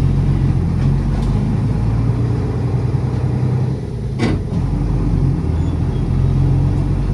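City bus engine heard from inside the cabin, running steadily as the bus drives, with a single sharp knock about four seconds in.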